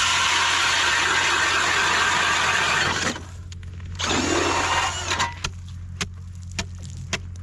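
Power ice auger drilling through ice to widen a fishing hole, running for about three seconds, pausing, then drilling again for about a second, followed by scattered knocks.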